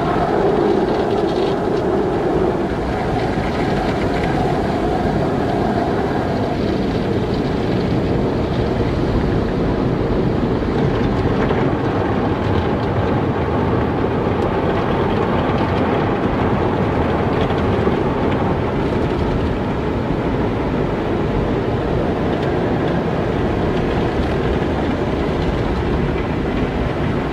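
Car wash running: a steady, dense rush of water spray and machinery that holds an even level throughout.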